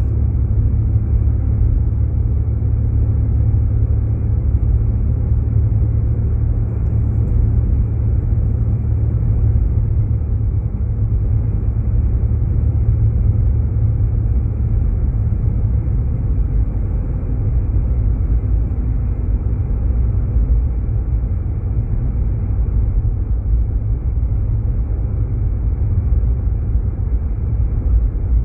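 Steady low road and engine rumble heard inside a Jeep Grand Cherokee's cabin as it drives.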